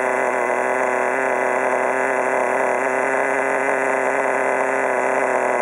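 Small nitro engine of a Redcat RC car idling at a steady pitch.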